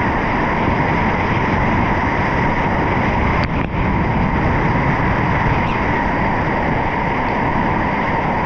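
Loud, steady rush of whitewater around a kayak on a river wave, with a brief dip about three and a half seconds in.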